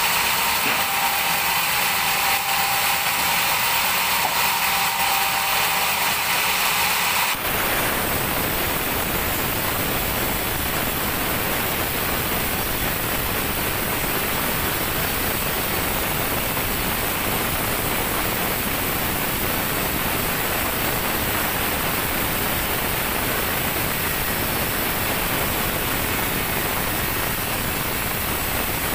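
Sawmill band saw running and cutting a teak log with a high-pitched whine. About seven seconds in the sound changes abruptly to a steady, even rushing noise.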